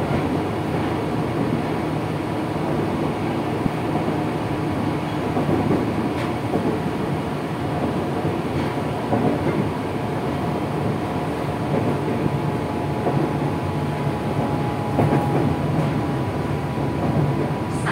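Interior running sound of a Tokyu 8500-series electric train's motor car with Toyo traction motors: a steady rumble of wheels on track with a steady whine from the traction equipment, partly masked by noisy air conditioning.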